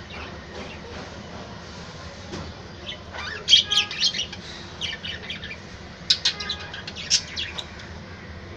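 Budgerigars chirping in two quick clusters of short, high chirps, the first about three seconds in and the second about six seconds in, over a steady background hiss.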